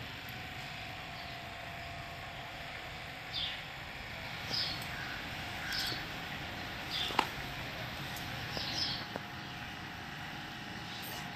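A bird chirping over steady background noise: about six short, high, falling chirps spread across several seconds. There is one sharp click about seven seconds in.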